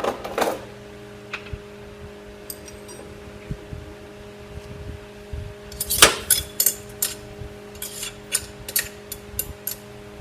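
Metal tools and parts clinking and tapping against metal over a steady machine hum. The loudest clatter comes about six seconds in, followed by a quick run of lighter clinks.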